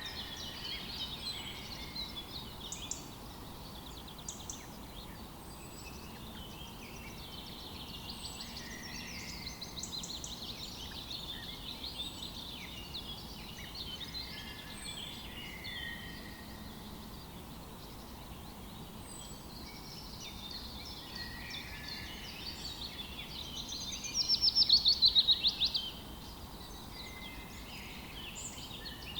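A chorus of songbirds chirping and singing over one another. Near the end, one bird gives a loud, rapid falling trill lasting about two seconds.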